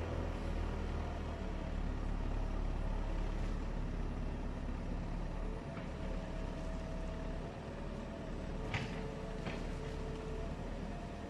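Heavy vehicle engine running steadily, a low rumble with a held tone, and two short knocks near the end.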